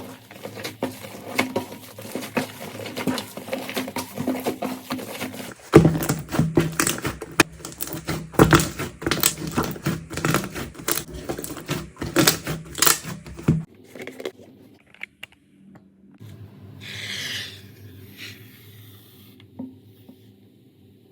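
Slime being squeezed, poked and stretched by hand, making dense sticky clicks and small pops. It comes in three clips that cut about six and fourteen seconds in; the middle one is the loudest, and the last is quieter, with a brief hiss partway through.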